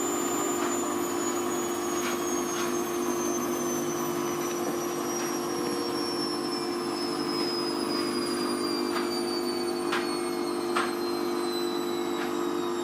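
Hoover Vision Tech VT 914 D22X washing machine's motor and drum running with a steady hum and a high whine that falls slowly and evenly in pitch, with a few light ticks. This is the drum winding down in speed, typical of the slowdown after a spin.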